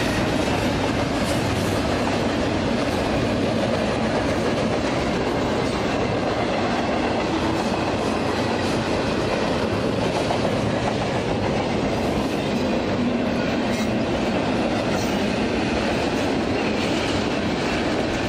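BNSF double-stack container train passing at speed, its wheels on the rails making a steady, continuous noise.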